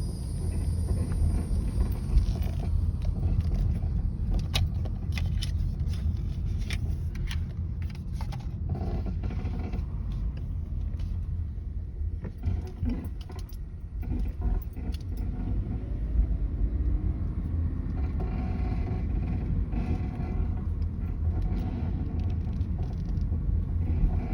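A 2017 Chevrolet Malibu's steering making a run of sharp clicks and knocks as the wheel is turned, over the steady low rumble of the running car. The clicks come thickest in the first several seconds and turn sparser later.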